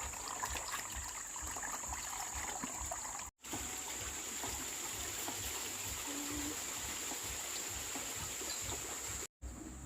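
Water trickling steadily, with a constant high-pitched hum behind it. The sound cuts out for an instant twice.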